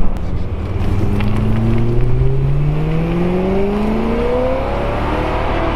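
Supercharged BMW E93 M3's S65 V8 accelerating hard, its pitch rising steadily in one long pull. It is on the stock exhaust and not very loud.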